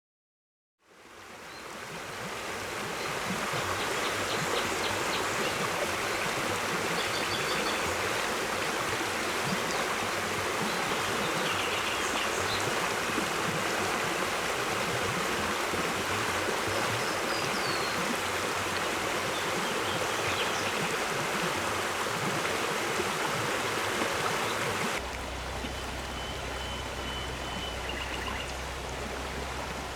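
Stream of running water, a steady rushing sound that fades in about a second in, with a few faint, short high chirps over it. About five seconds before the end it changes abruptly to a slightly quieter water sound with a low steady hum underneath.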